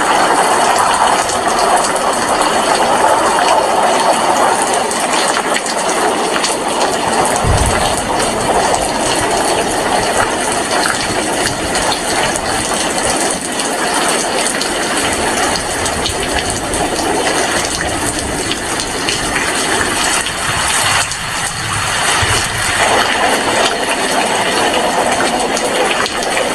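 Heavy rain falling steadily, a dense even hiss. A brief low thump sounds once, about seven and a half seconds in.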